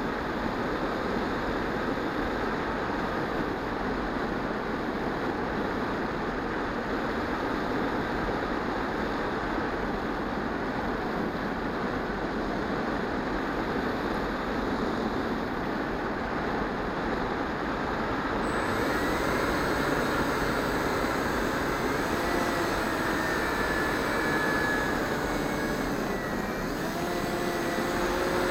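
EasyStar 2 radio-controlled foam plane in flight: its electric motor and propeller run under a steady rush of air. About two-thirds of the way in, thin whining tones come in and slide up and down in pitch.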